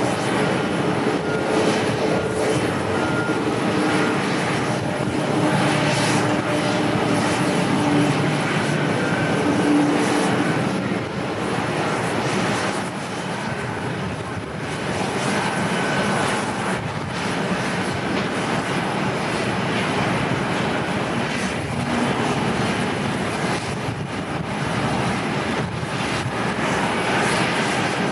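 Airliner's engines during landing: a steady, loud rush of noise with a few faint held tones in it.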